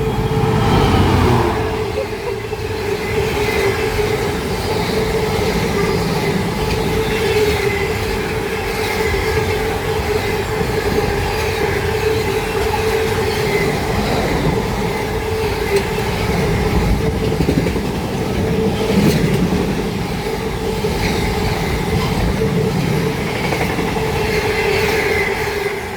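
Freightliner Class 66 diesel locomotive (EMD two-stroke V12) passing at speed with its cooling fans at full, loudest about a second in. A long, heavily loaded intermodal freight train follows, its wagons rumbling and clattering past over the rails with a steady whine running through.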